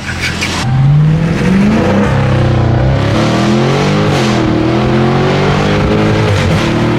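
Muffler-deleted exhaust of a 2023 Chrysler 300C's 6.4-litre HEMI V8 under acceleration. The pitch climbs sharply about a second in, dips and rises again in the middle, then settles into a steadier drone.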